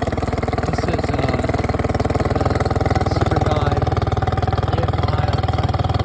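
Mercury 40 HP four-stroke EFI outboard engine idling steadily, with an even, rapid pulse.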